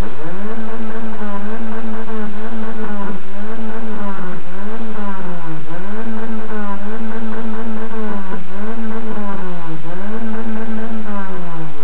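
Car engine revved up and held at high revs, wavering with brief dips about once a second, then dropping back toward idle near the end.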